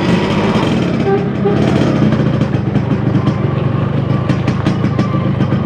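Yamaha RX-King two-stroke single-cylinder motorcycle engine running steadily with its fast, even crackling exhaust beat.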